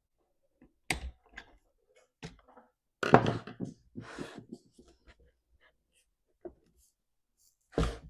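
Irregular knocks, clicks and scrapes from hands fitting parts back onto a Stihl MS362 chainsaw during reassembly, with the loudest cluster of knocks about three seconds in.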